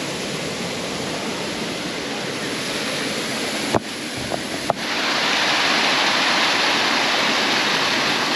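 Steady rush of a small river's flowing water. It breaks off briefly twice around four to five seconds in and comes back louder.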